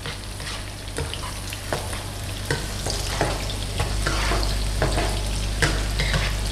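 Chopped shallots, garlic and red chillies sizzling in oil in a nonstick wok, stirred with a spatula that scrapes the pan about once a second. The sizzle grows louder about halfway through; the shallots are softening but not yet browned.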